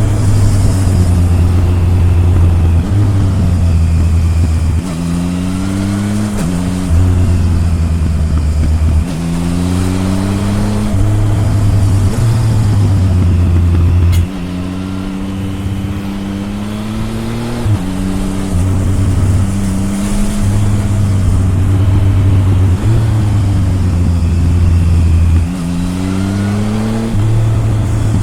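Triumph Tiger 1050's three-cylinder engine close to its exhaust, pulling hard and backing off again and again on a winding road: the pitch climbs with each pull, then drops back every few seconds, with a sharp drop in loudness about halfway through.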